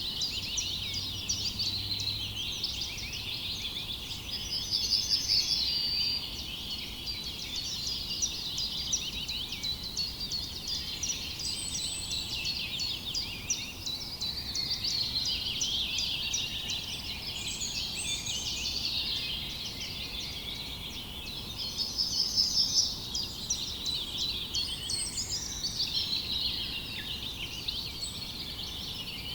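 Dense chorus of many small songbirds chirping and twittering together. A rapid trill stands out twice, about five seconds in and again past the middle, the loudest moments.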